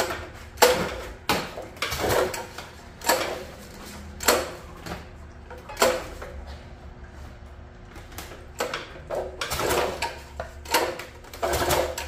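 Recoil pull-starter of a mini bike's Harbor Freight Predator four-stroke engine being pulled over and over, about one pull a second with a pause just after the middle. The engine turns over but does not catch; water in the engine is suspected.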